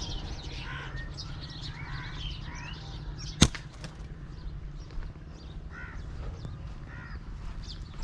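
Birds calling and chirping in the trees, with one sharp click about three and a half seconds in and a steady low rumble underneath.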